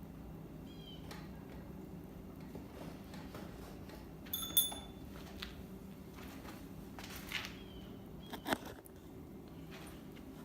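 Faint, short falling chirps of a small bird over a steady low hum, with a sharp ringing click about halfway through and a couple of knocks near the end.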